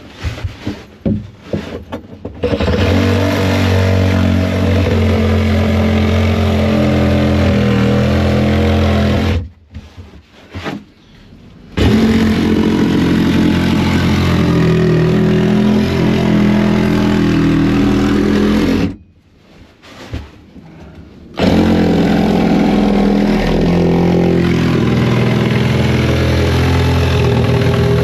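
A power saw cutting through roofing, its motor running at a steady pitch with a rasping cutting noise. It runs in three long stretches, stopping briefly about nine and a half and nineteen seconds in.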